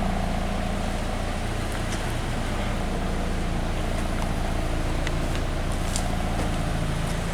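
2014 Scion FR-S's 2-litre flat-four boxer engine idling steadily, heard at its dual exhaust.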